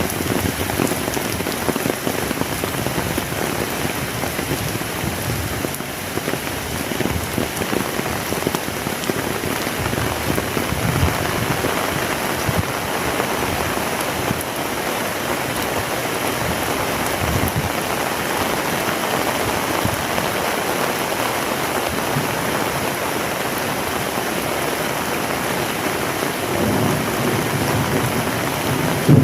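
Heavy rain pouring steadily and drumming on surfaces. Near the end a low rumble of thunder comes in under the rain.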